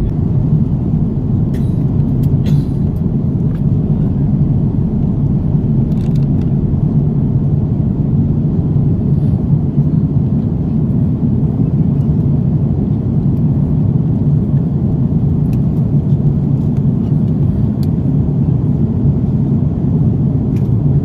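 Steady low rumble of an Airbus A330-300 cabin in flight, the airflow and engine noise heard from a passenger seat, with a few faint clicks.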